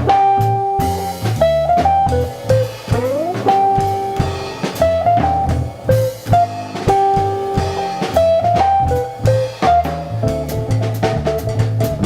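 Jazz trio of jazz guitar, upright bass and drum kit playing a jazz arrangement of a hymn. The guitar carries the melody in held notes, with one note sliding up about three seconds in, over a moving bass line and steady drums with cymbal crashes.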